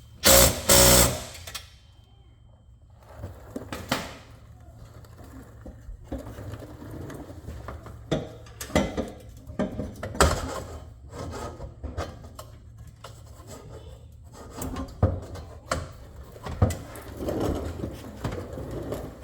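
Irregular clanks, knocks and rattles of tools and car parts being handled, with two loud hits just after the start, over a steady low hum.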